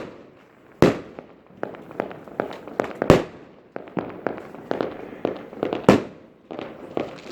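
Fireworks going off: a rapid scatter of sharp bangs and crackling pops, with three loudest bangs about a second, three seconds and six seconds in.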